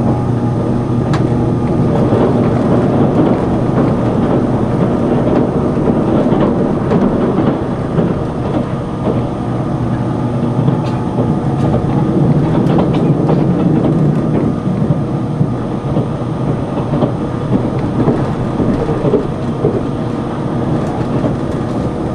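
Running noise inside a tilting electric express train at speed: a steady rumble of wheels on rail and car body, with scattered sharp clicks.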